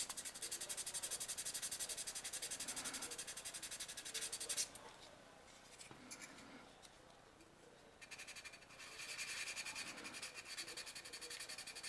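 Sandpaper rubbed by hand over a plastic model kit part in quick back-and-forth strokes, flattening the surface. The sanding stops for about four seconds in the middle, then starts again.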